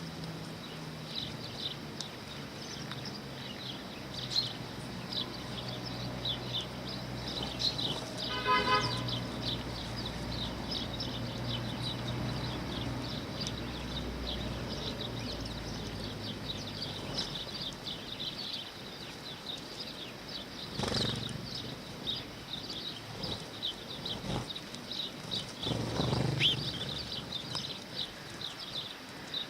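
A flock of sparrows chirping continually in short, rapid high chirps. A low steady hum runs under them through the first half, and a single louder pitched call stands out about a third of the way in.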